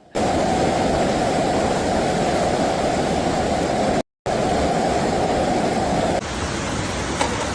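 Rushing floodwater: a steady, heavy noise of fast-moving water, cut off briefly about four seconds in. About six seconds in it gives way to a thinner rushing noise.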